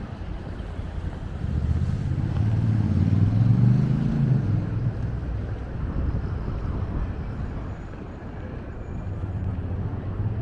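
A motor vehicle passing close by, its low engine hum swelling and bending in pitch, loudest about three to four seconds in, then fading into steady city noise.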